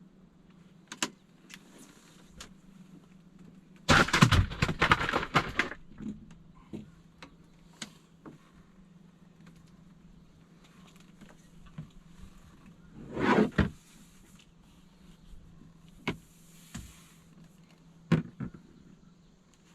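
Clicks, knocks and rattles of gear being handled on a fishing boat, with two louder rattling bursts about four seconds in and about thirteen seconds in, over a steady low hum.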